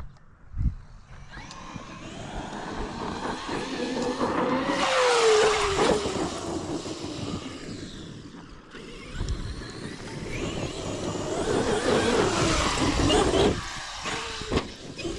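Off-road vehicle on Sledgehammer non-belted tires driving a dirt track, its engine speeding up twice with a falling pitch between, over rumbling tire and road noise. There is a sharp thump under a second in.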